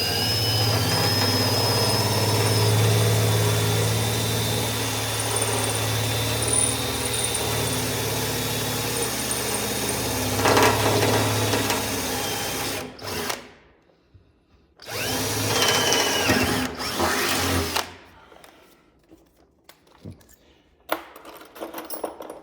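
Power drill running under load for about thirteen seconds, then stopping; after a short pause a second, shorter run of about three seconds, followed by a few light clicks.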